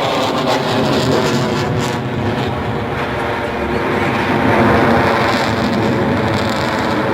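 F-22 Raptor's twin Pratt & Whitney F119 afterburning turbofans in flight: loud, steady jet noise that swells a little after about four seconds.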